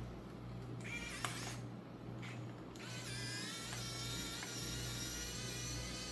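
A few light clicks, then from about three seconds in a small electric motor whines steadily at a high pitch over a low hum.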